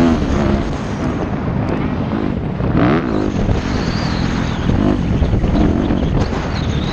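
Yamaha YZ250F motocross bike's four-stroke single-cylinder engine revving up and easing off as it rides, with a burst of throttle about three seconds in. Wind rushes on the microphone throughout.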